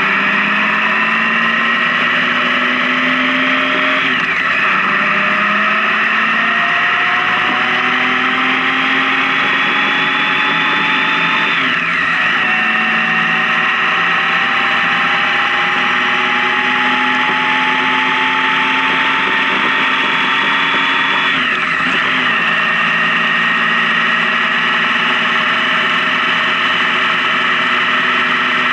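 Honda Gold Wing motorcycle engine pulling under way, its pitch climbing slowly as it gains speed, then dropping sharply three times as it shifts up. Steady wind and road noise runs underneath.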